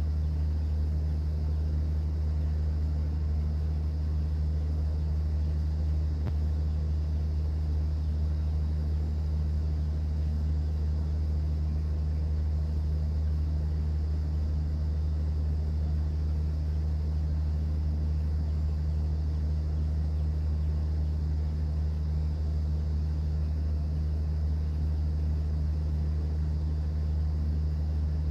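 Cruise boat's engine running with a steady, deep hum that does not change.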